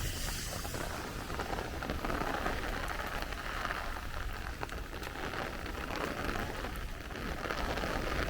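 Steady rain falling, with a patter of individual drops.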